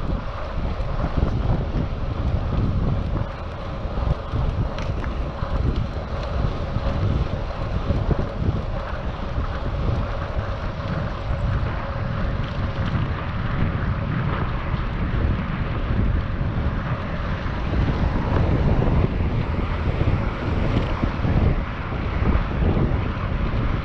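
Wind buffeting an action camera's microphone on a moving bicycle, with road noise from the ride, uneven and continuous.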